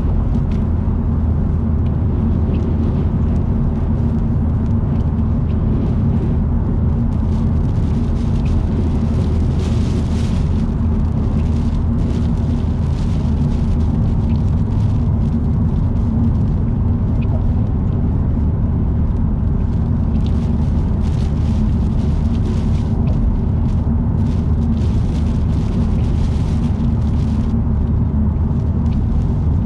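Car cabin noise while driving at expressway speed: a steady low drone of tyres and engine, with a faint hiss that comes and goes.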